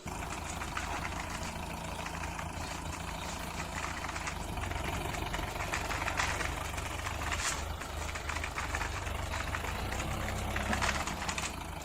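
Tractor engine running steadily with a low rumble, heard while a toy tractor is driven along.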